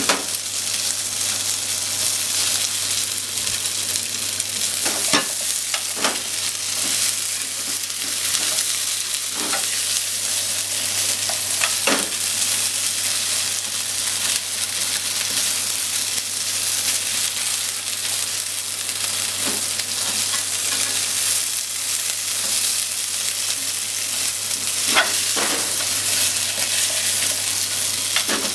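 Salmon and sliced potatoes sizzling steadily in a frying pan as they are stir-fried, with a few sharp clicks scattered through as chopsticks turn the pieces against the pan.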